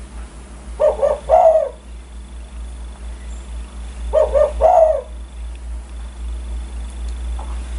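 Spotted dove (tekukur) cooing: two phrases about three seconds apart, each of two short coos followed by a longer, falling coo.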